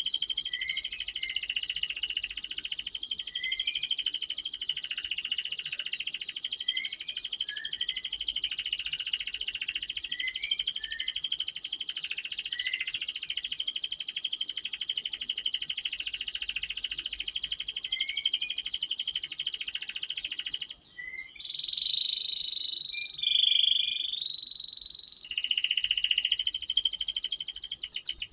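Domestic canary singing a long, continuous song of fast rolling trills, broken about 21 seconds in by a short pause and a few clear held whistle notes before the rolling resumes.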